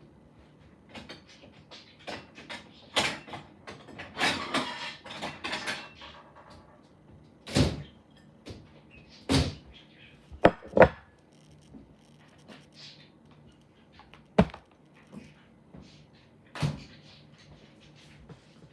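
Irregular sharp knocks and clicks, like a door or cupboard being handled, with a scraping clatter around four to six seconds in and two close knocks a little past ten seconds.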